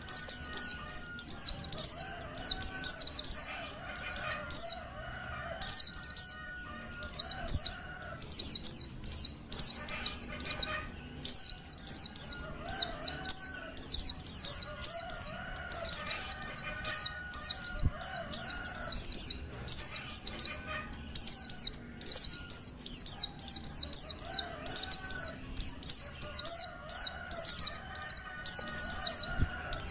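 Female white-eye (pleci) calling: quick clusters of short, very high notes that each sweep downward, repeated over and over with barely a pause, with fainter, lower warbling notes beneath. Sold as the call of a female in breeding condition, used to set male white-eyes singing.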